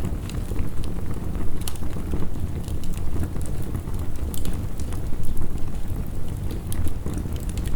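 Heavy rain and a crackling wood fire: a steady low rumble with scattered sharp crackles and pops.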